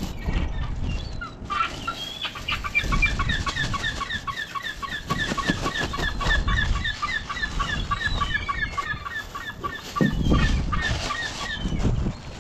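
A bird calling a long, evenly paced series of short notes, about three or four a second, starting a second or two in and stopping near the end. Under it, plastic bags rustle and crinkle as they are handled.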